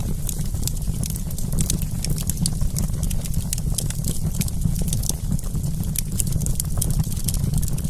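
Wood campfire crackling: many small irregular snaps and pops over a steady low rumble.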